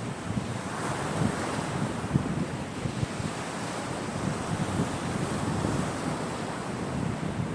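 Caspian Sea waves breaking and washing on the shore, a continuous surf noise that swells about a second in.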